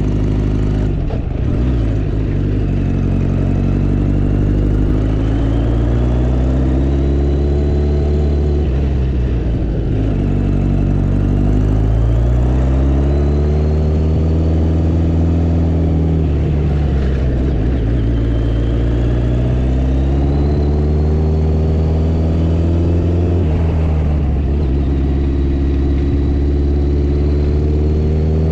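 Motorcycle engine pulling along the road, its pitch climbing steadily and then dropping sharply at each gear change, about four times, over a bed of road and wind noise.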